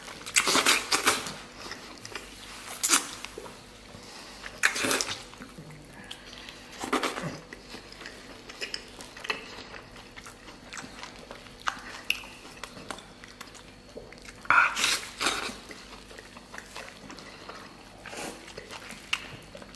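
Close-up eating sounds: wet chewing and biting of saucy stewed beef in flatbread, in irregular bursts a few seconds apart, the loudest about three-quarters of the way through.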